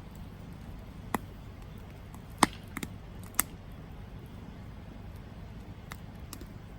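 Campfire wood crackling: a handful of sharp pops and snaps, the loudest about two and a half seconds in, a couple of fainter ones near the end, over a low steady rumble of the burning fire.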